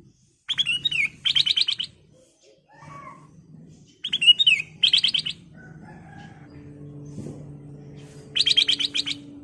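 Black-crested bulbul (kutilang emas) singing: a slurred whistled note followed by a quick rattling trill, given twice, then another trill near the end. A steady low hum sits underneath in the second half.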